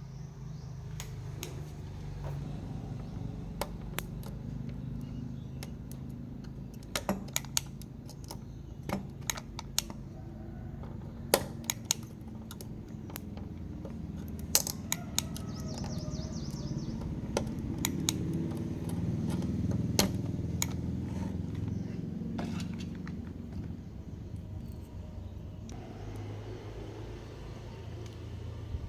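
Irregular sharp clicks and taps over a steady low hum.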